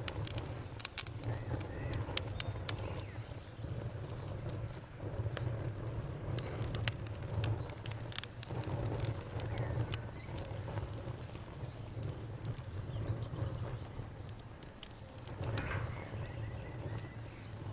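Campfire crackling and popping over a low steady rumble, with crickets chirping in a steady high trill and frogs calling now and then.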